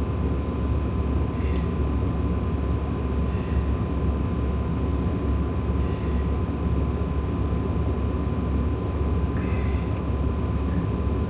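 Semi-truck's diesel engine idling, a steady low rumble heard inside the cab, with a faint steady high tone over it.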